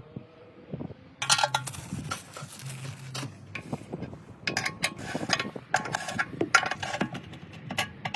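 Metal tools and parts clinking and scraping in irregular bursts, starting about a second in, with some ringing metallic tones.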